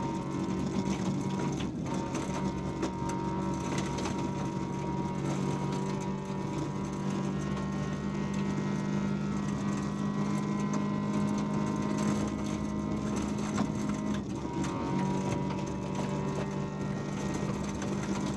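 VW Polo 1.4 16V rally car's four-cylinder engine running hard at steady high revs, heard inside the stripped cabin, with clicks and rattles over it. The engine note breaks briefly about fourteen seconds in, then returns at the same pitch.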